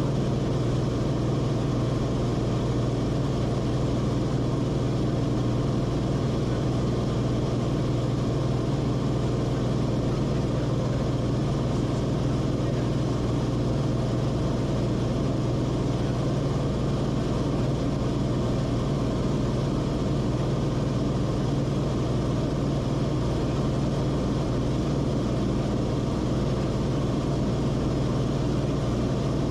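Steady drone inside the cabin of a Cessna Corvalis TTX: its turbocharged six-cylinder Continental engine and propeller running at constant power.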